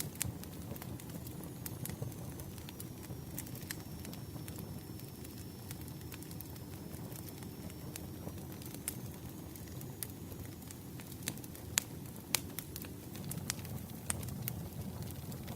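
Campfire burning: a steady low rumble of flames with frequent, irregular sharp crackles and pops from the wood, and a faint thin high whistle through the middle.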